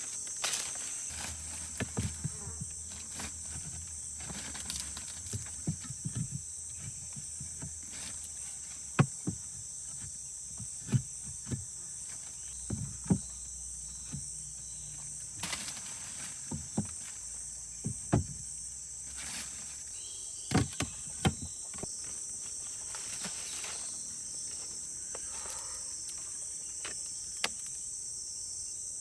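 A steady, high-pitched chorus of forest insects, with irregular sharp knocks and thumps scattered over most of the stretch, growing sparse near the end.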